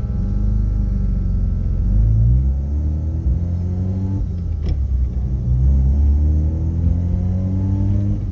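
First-generation Mazda RX-7's rotary engine, fed by a Weber 48 IDA carburettor through 3D-printed velocity stacks, heard from inside the cabin while driving under acceleration. The engine note climbs several times and drops back between the climbs, as with gear changes. There is a short click near the middle.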